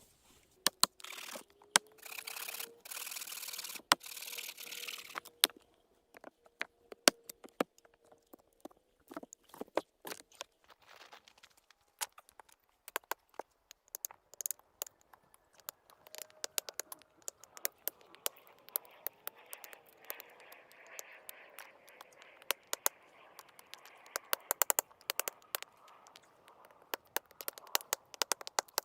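Many sharp crackles and clicks, irregularly spaced, with a stretch of hissy scraping or rustling about a second in that lasts a few seconds.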